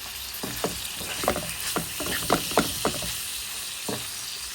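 Chicken and vegetables sizzling steadily as they fry in butter in a pan, with a run of short irregular clicks and knocks over the sizzle.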